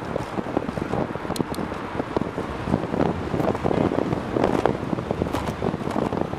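Wind buffeting the microphone of a camera on a bicycle moving fast through city streets, a continuous choppy rumble, with a few brief high clicks.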